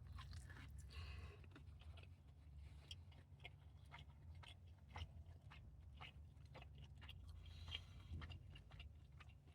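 Faint chewing of a fried chicken sandwich: soft, scattered mouth clicks and small crunches over a low, steady hum.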